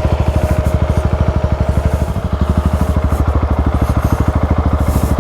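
Single-cylinder trail motorcycle engine idling with an even, rapid pulse of roughly ten beats a second.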